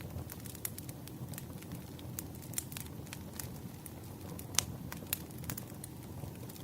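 Burning firewood crackling: scattered sharp pops and snaps over a steady low rumble of the fire, with one louder pop about halfway through.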